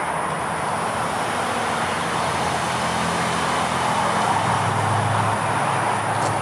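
Road traffic: a motor vehicle's engine rumble with tyre noise, growing slowly louder as it draws closer.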